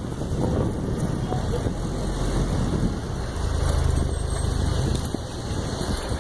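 Road traffic passing a moving bicycle: a motor vehicle's engine rumbling steadily, loudest from about three and a half to five seconds in.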